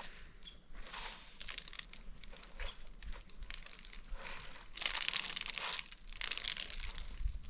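Irregular rustling and crinkling, as of something dry being handled or crushed, loudest in two stretches near the end.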